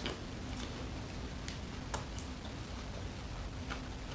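Popcorn being chewed: soft, scattered crisp clicks and crunches, about half a dozen.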